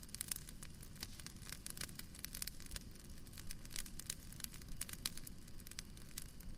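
Fireplace crackling: a steady run of small, irregular pops and snaps over a low rumble.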